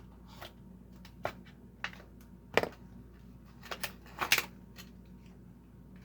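Irregular clicks and light taps of a 1/64 diecast car and its packaging being handled, loudest about two and a half seconds in and again just past four seconds.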